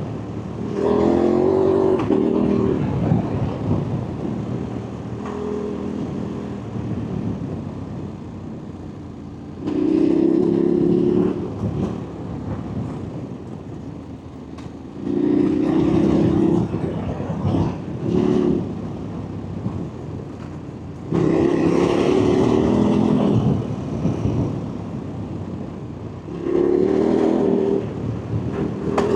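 Motor vehicle engine accelerating hard in about six surges, each one to three seconds long and a few seconds apart, with quieter running between them.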